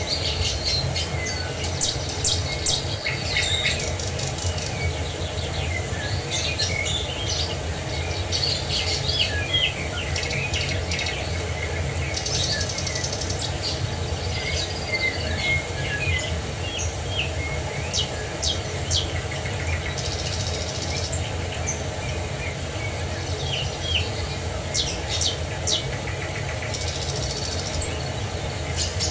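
Several birds chirping and calling, with a few short buzzy trills, over a steady low rush of falling water.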